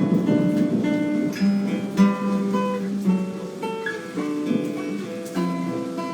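Guitar being played solo: a strummed chord at the start, then picked single notes ringing out over a repeated low bass note.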